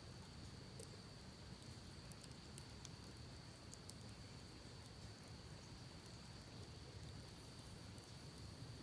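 Campfire crackling faintly, with sparse small pops scattered through, over the steady low rush of a creek and a steady high-pitched insect drone.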